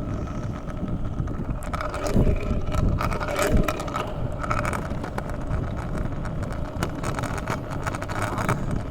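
Riding over wet pavement: wheels rolling and wind rushing over the microphone, with a few sharp knocks about two and three and a half seconds in.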